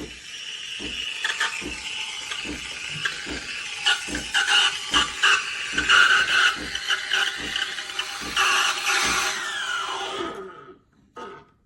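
Espresso machine running, a loud hissing whir with a few steady whining tones and regular low thumps about every two-thirds of a second. It cuts off abruptly about ten and a half seconds in, followed by a single short click.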